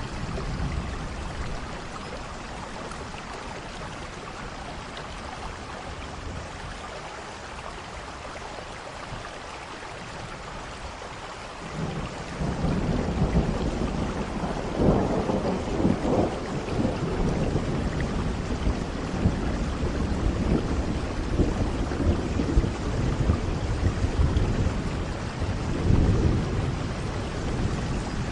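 Steady rain falling, with thunder rumbling in about twelve seconds in and rolling on, swelling twice before fading.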